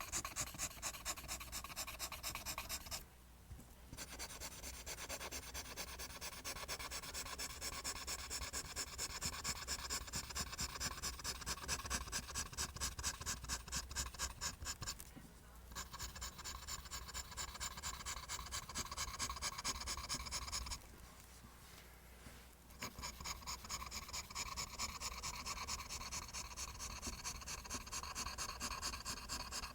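Pencil drawing lines on paper, scratching back and forth in a quick steady rhythm of about three strokes a second, with brief pauses three times, near the start, about halfway and about two-thirds through.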